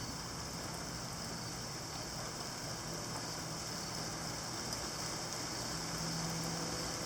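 Heavy rain pouring down in a steady hiss, slowly building in strength.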